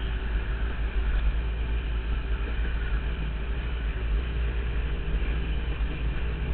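KTM dirt bike engine running steadily under way on a dirt trail, heard from the rider's helmet camera, with a constant low rumble beneath it.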